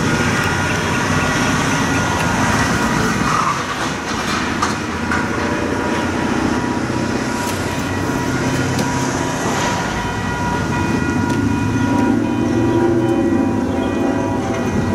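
Approaching CN freight train, still out of sight: a steady rumble with several steady high tones over it that grow stronger after about ten seconds.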